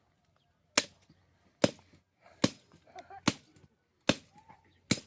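Firewood being chopped by hand: six sharp blows of a blade into wood, evenly paced about one every 0.8 seconds.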